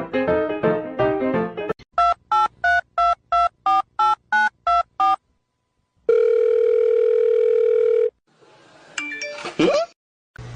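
Piano music stops about two seconds in. About eleven short, evenly spaced electronic beeps like telephone keypad tones follow, then a steady tone held for about two seconds, then a brief sound gliding in pitch near the end.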